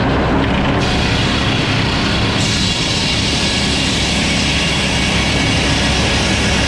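Sawmill running steadily under cut: a constant engine-and-machine drone with the hiss of the blade cutting through a log. The hiss grows louder in two steps, about a second in and again about two and a half seconds in.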